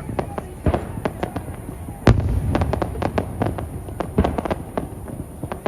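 Aerial fireworks bursting: a rapid, irregular string of bangs and crackling reports over a low rumble, with a heavy bang about two seconds in followed by a dense run of cracks.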